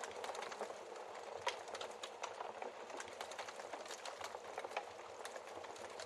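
Wood fire crackling: a steady soft hiss with frequent irregular snaps and pops from the burning logs, one pop louder than the rest about a second and a half in.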